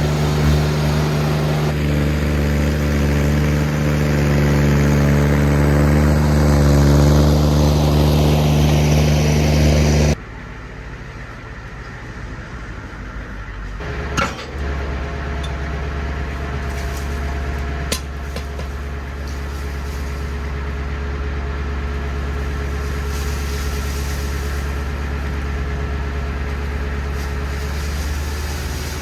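Engine-driven equipment running steadily, with a hiss that slowly falls in pitch. About ten seconds in, the sound cuts abruptly to a different, somewhat quieter engine running steadily, with a couple of brief clicks.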